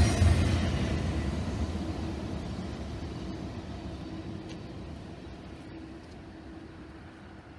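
Freight train of empty intermodal well cars rolling away down the mainline, its low rumble and wheel noise fading steadily until only a faint hum is left.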